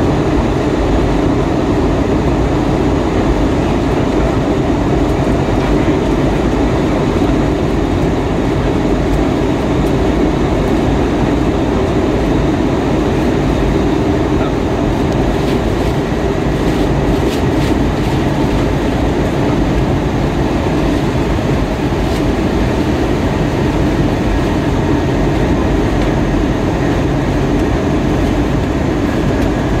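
Steady cabin noise inside an Airbus A320-232 airliner: an unbroken rumble and rush from its IAE V2500 turbofan engines and the airflow around the fuselage.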